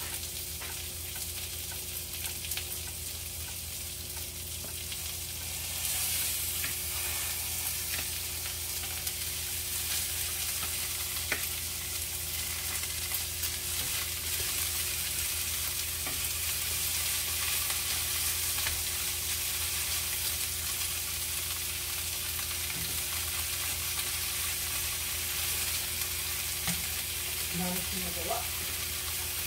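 Beef strips and sliced onions sizzling steadily in a nonstick frying pan as broccoli florets are tipped in from a colander. The sizzle grows louder about six seconds in.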